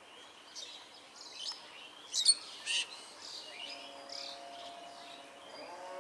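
Birds chirping, a scatter of short, high calls, the loudest about two seconds in. From about three and a half seconds in, a faint, long, steady pitched tone sets in and grows louder near the end.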